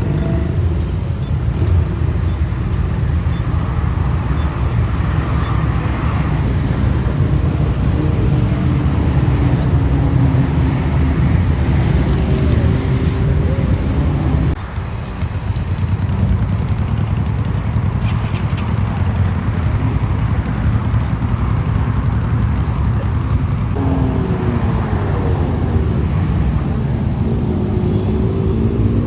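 Motorcycles and other road traffic passing on a highway: a steady low rumble with engine notes gliding up and down as machines go by, changing abruptly about halfway through.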